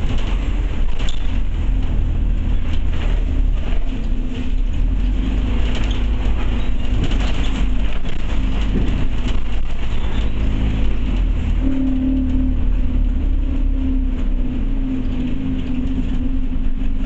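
Interior of a Scania OmniCity bus under way: steady engine and road rumble, with rattling from the bodywork and fittings. The engine's hum grows stronger about two-thirds of the way through.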